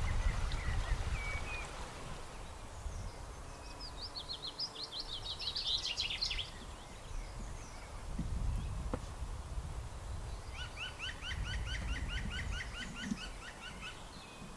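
Songbirds singing: a phrase of rapid falling notes, then later a trill of evenly repeated notes, over a low rumble that rises and falls.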